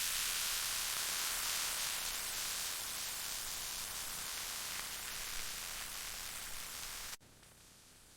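Food sizzling in a hot frying pan: a steady hiss that cuts off suddenly about seven seconds in.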